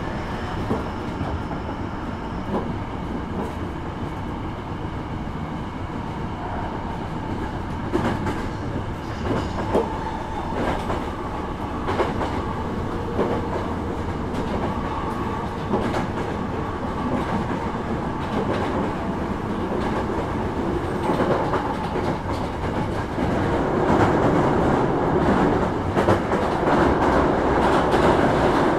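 Hankyu 9300 series electric train running, heard from inside the car: a steady rumble with wheels clacking over rail joints every second or two, growing louder in the last few seconds.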